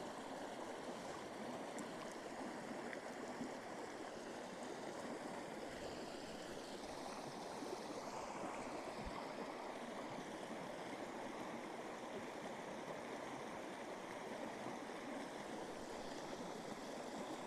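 Steady rushing of running water, like a small stream.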